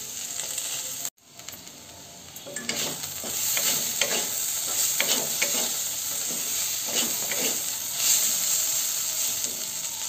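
Sliced ivy gourd sizzling in hot oil in a metal kadhai over a medium flame, with a wooden spatula scraping and stirring against the pan. The sound drops out for a moment about a second in, comes back quieter, then grows louder as the stirring strokes pick up.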